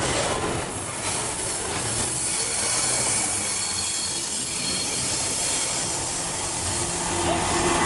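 Train wagons rolling past with the steady rumble of wheels on rail and a faint high wheel squeal.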